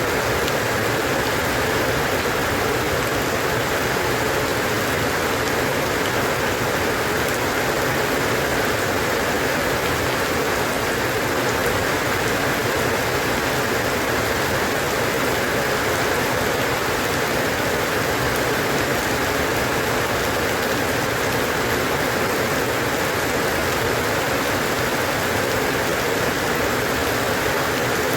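Steady rain falling, an even hiss of many drops on a surface with no let-up.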